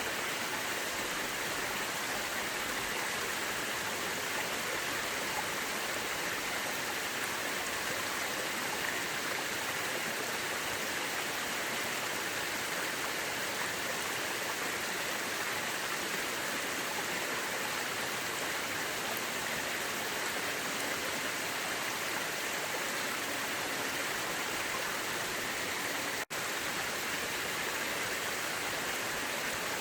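Mountain river flowing with a steady rushing sound, unchanging in level. The sound cuts out for an instant near the end, then resumes.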